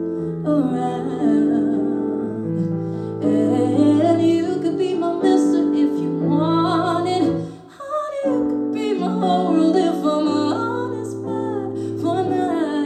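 A woman singing a slow song live over held keyboard chords, her voice gliding up and down between notes. Voice and chords drop away briefly about seven and a half seconds in, then carry on.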